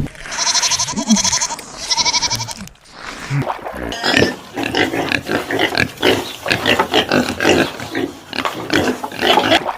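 Repeated animal calls: three pulsed, buzzy calls in the first few seconds, then a fast run of short, choppy calls in quick succession.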